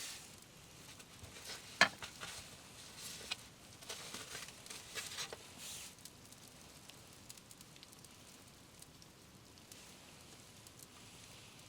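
Light rain pattering steadily, with a sharp click about two seconds in and rustling and small knocks of handling until about six seconds in.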